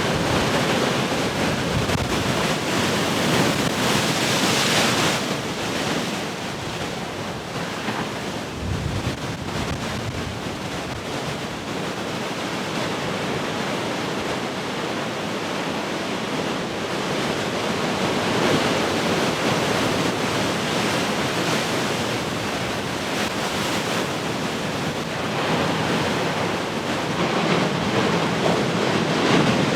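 Large ocean waves breaking and washing ashore in a continuous surging roar that swells and eases, loudest a few seconds in and again near the end. Wind buffets the microphone.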